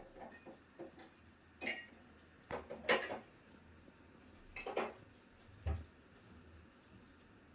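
Dishes and cutlery clinking and clattering as they are handled, in four short bunches with the loudest about three seconds in, then a duller knock near the end.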